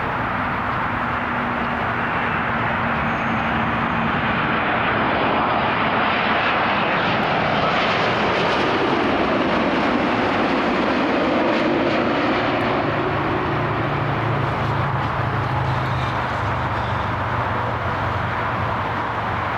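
A jet airliner's engines pass close by as a steady rushing roar, growing louder toward the middle, with a whine that falls and then rises again in pitch around the loudest point. A low, steady engine drone stays on toward the end.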